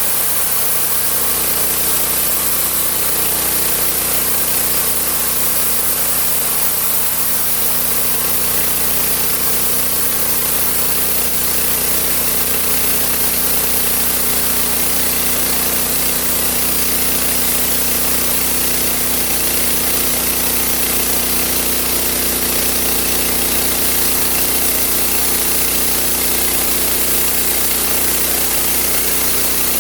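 Homemade sawmill's engine running steadily at a constant speed.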